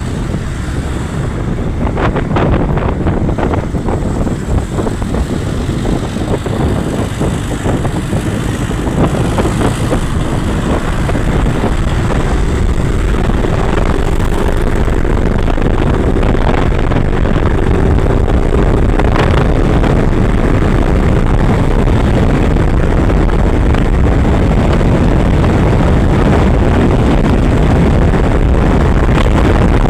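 Motorcycle engine running during a ride, with a steady rush of noise that grows gradually louder. A faint engine note rises slowly through the middle.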